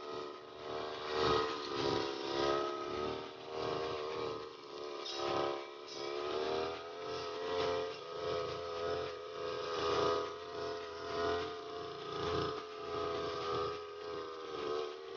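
Petrol brush cutter engine running at high speed while cutting grass for cattle feed, its note swelling and dipping about once a second as it is swung through the grass.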